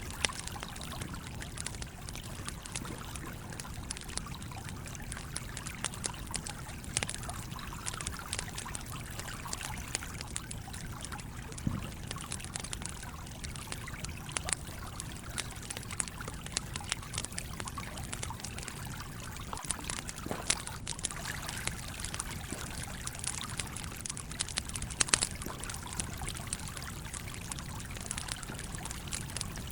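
Stream water flowing and trickling steadily, with the frequent small crackles and pops of a wood campfire, a few sharper pops near the end.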